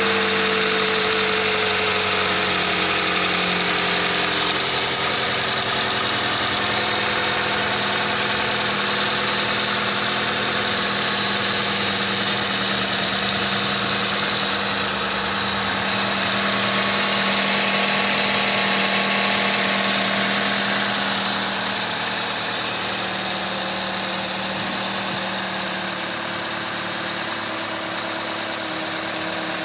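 Toyota 1NZ-FE 1.5-litre four-cylinder engine idling steadily, its cooling system freshly refilled with coolant. A faint tone slides slightly down in pitch over the first few seconds.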